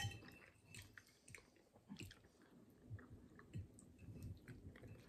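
Faint close-up chewing of pasta with meatballs, soft wet mouth sounds and small clicks, with one sharp click at the very start as the fork touches the plate.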